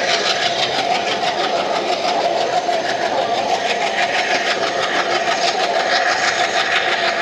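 Passenger train running along the line, heard from an open coach doorway: a steady, loud running noise of the coach on the rails with a fast, fine rattle.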